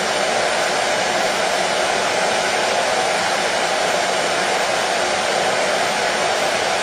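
Hair dryer running steadily, a continuous even whooshing hum played as white noise to soothe a colicky baby.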